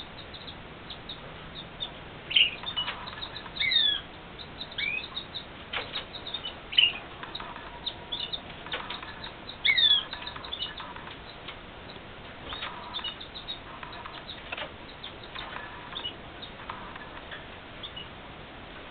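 Red factor canaries chirping, with short falling call notes scattered throughout and a few louder bursts, amid many small clicks.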